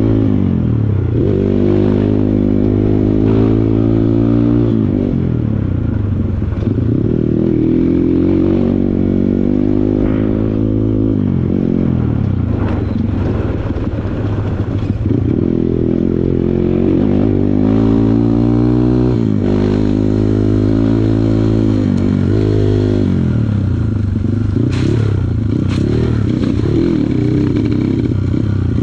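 Kawasaki KLX140 dirt bike's small single-cylinder four-stroke engine revving up and falling back over and over as the throttle is worked off-road, with a few knocks and clatters near the end.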